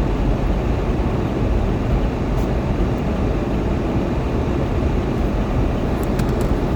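Winter storm wind blowing, a steady rushing noise heaviest in the low end, with a few faint ticks near the end.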